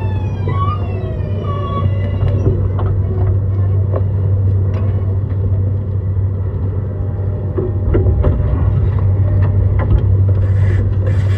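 E131 series electric train's Hitachi hybrid SiC VVVF inverter whine gliding down in pitch for the first two seconds as the train brakes, then a steady low traction-motor hum with wheel clicks over the rails. A burst of hiss comes near the end.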